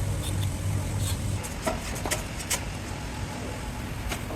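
Workshop machinery noise: a steady low hum that fades out about a second and a half in, with scattered sharp clicks and knocks.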